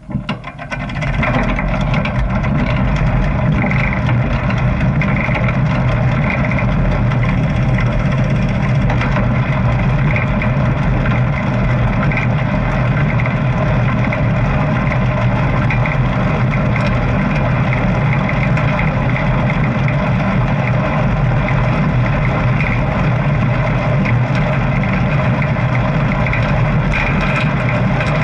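Motorcycle engine running at a steady speed, coming in abruptly at the start and then holding an even, unchanging note.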